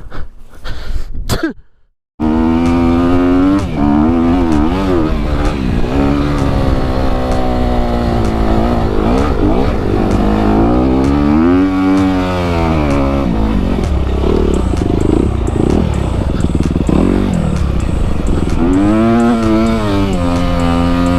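Dirt bike engine running under load, its pitch rising and falling again and again with throttle and gear changes over a steady low rumble. The sound cuts out briefly about two seconds in, then the engine comes back in.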